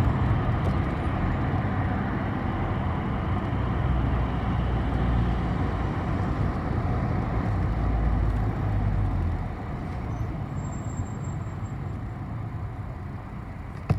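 City bus riding, heard from inside the passenger cabin: a steady low engine drone with road noise, which drops in level about two-thirds of the way through.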